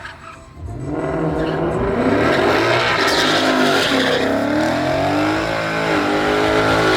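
Truck engine revving hard. It drops off briefly about half a second in, then climbs again, its pitch swinging up and down.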